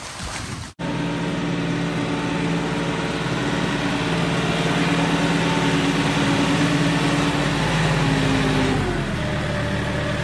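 Tractor engine running steadily, starting abruptly about a second in and shifting slightly in pitch near the end.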